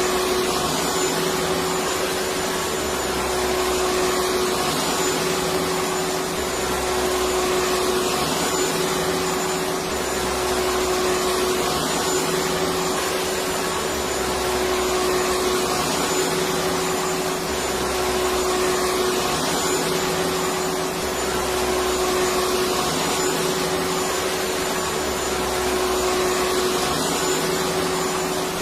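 Electric vacuum cleaner running steadily: an even whooshing whir with a steady hum under it, and a low rumble that swells and drops about every three seconds.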